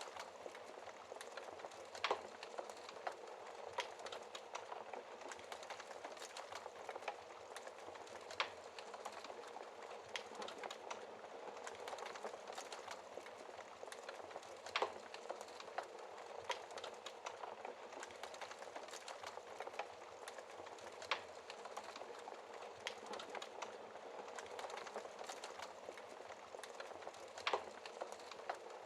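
Wood fire burning: a steady crackle with sharp louder pops every few seconds.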